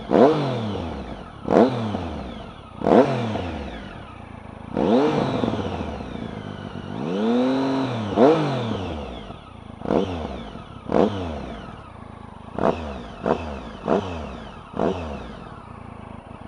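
Triumph Tiger 1050 Sport's inline three-cylinder engine breathing through an aftermarket SC-Project exhaust, revved in about a dozen sharp blips. Each blip falls back toward idle. About seven seconds in comes one slower, smooth rise and fall.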